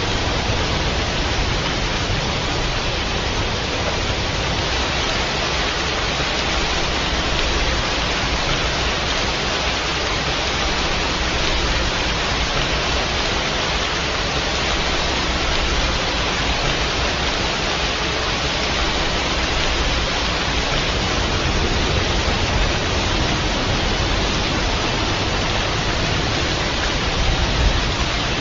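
Steady heavy rain: an even, unbroken hiss with a low rumble underneath.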